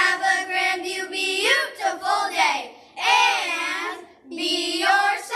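Children's voices singing a song in held, sustained phrases, with short breaks between phrases.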